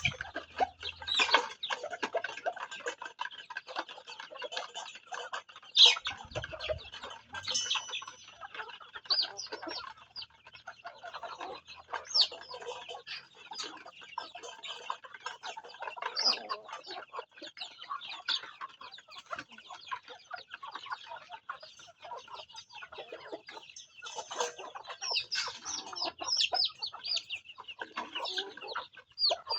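Flock of farm chickens and young chicks clucking and peeping continuously, a dense run of short high calls with a few louder, sharper calls.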